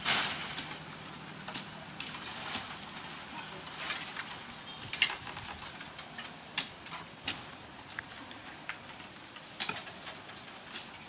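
Food frying in hot oil in a pan: a steady sizzle that flares loudly right at the start and dies back over about a second, with scattered sharp clicks from a utensil.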